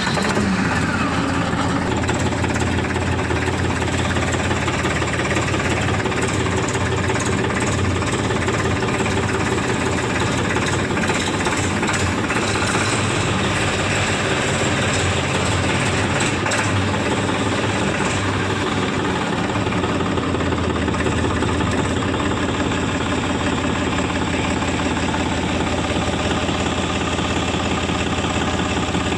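Diesel tractor engine running steadily at a constant speed, with no revving.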